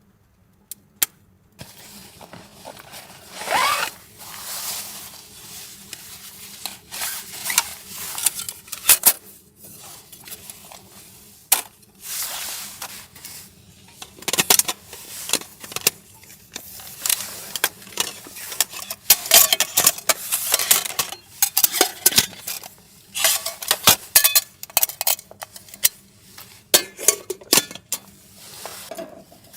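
Metal cookware and utensils being handled, clinking and clattering in irregular bursts with some scraping. A few sharp single clicks come first, and the clatter sets in after a second or two.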